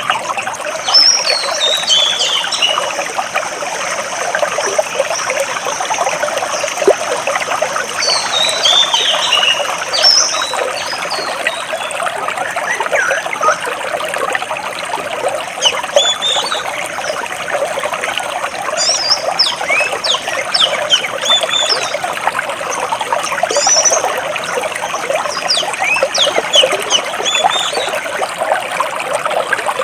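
Stream water trickling and splashing steadily between large rocks, with songbirds chirping over it in short runs of quick falling notes that come and go several times.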